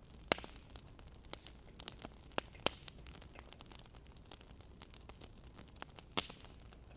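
Wood fire crackling: irregular pops and snaps over a soft hiss, with a few louder snaps.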